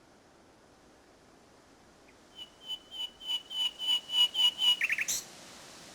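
Common nightingale singing. After a short pause, it delivers a phrase of rapidly repeated notes on one pitch that grow steadily louder, ended by a few quick sharp notes near the end.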